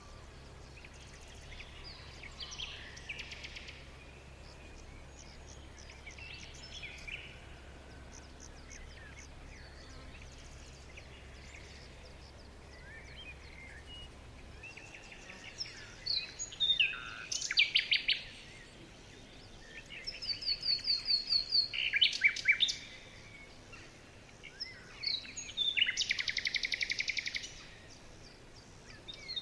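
Wild songbirds chirping and singing: faint scattered chirps at first, then louder song phrases with quick trills from about halfway on.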